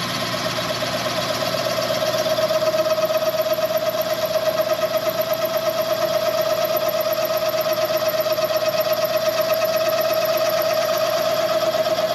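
Boring cutter taking the final cut in the rear main seal bore of a Chevy 400 engine block: a steady, ringing metal-cutting whine with a fast, even pulsing, about six beats a second. It grows a little louder after about two seconds and starts to fade near the end.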